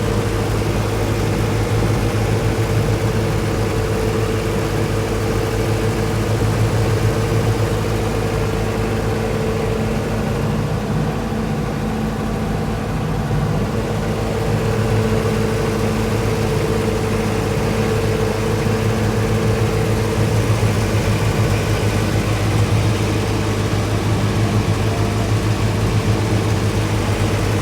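Watercraft engine running steadily at a constant, unchanging pitch.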